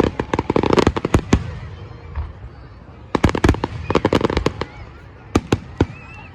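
Fireworks going off: two rapid volleys of crackling bangs, the first at the start and the second about three seconds in, then two single loud bangs near the end.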